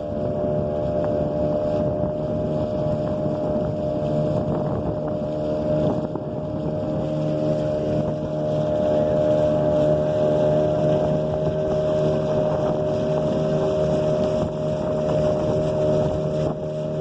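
Speedboat engine running at a steady pitch while under way, with wind buffeting the microphone.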